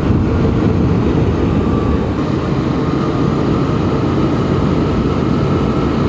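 Suzuki V-Strom 650's V-twin engine pulling steadily uphill in third gear under a heavy rush of riding wind. A faint whine rises slowly in pitch from about two seconds in.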